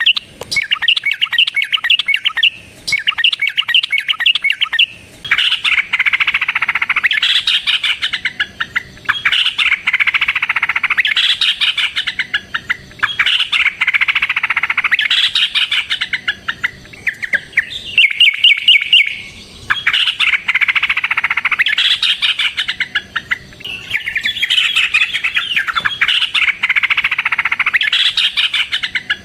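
Yellow-vented bulbul (trucukan) song: long phrases of rapid chattering notes, one after another with only brief pauses between them. This is the agitated, fighting style of song used to lure or provoke other trucuk birds into singing.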